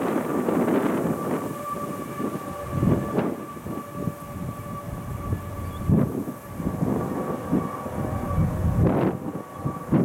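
Union Pacific double-stack intermodal train, led by GE ES44AC locomotives, rolling past with a steady rumble and a thin, steady high-pitched tone held over it. Gusts of wind thump the microphone now and then, including one about six seconds in.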